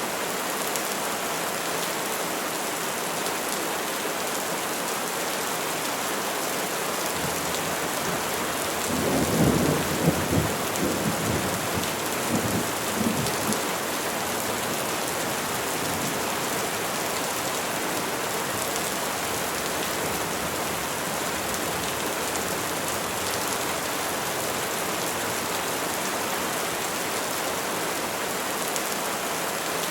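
Steady rain falling on trees. About a third of the way in, a low roll of thunder rumbles for a few seconds with several swells, then fades back into the rain.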